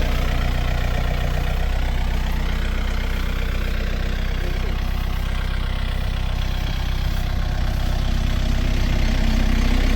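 Yanmar A-series tractor's diesel engine running steadily at a low, even speed.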